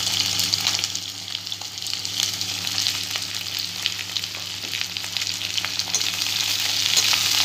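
Chopped onion and garlic sizzling and crackling in hot oil in a frying pan, the onions being lightly browned.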